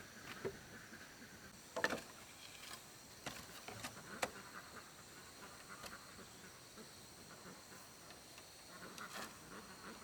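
Scattered light clicks and taps of hand work on building materials, the sharpest about two seconds and four seconds in, over a faint steady high-pitched hum.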